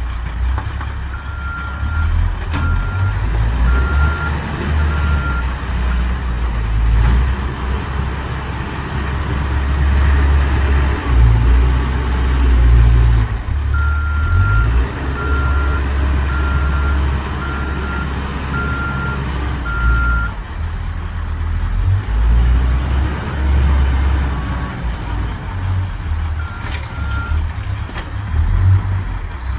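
Caterpillar 416 backhoe loader's diesel engine running and working under varying load, with a reversing alarm beeping about once a second in three separate runs as the machine backs up.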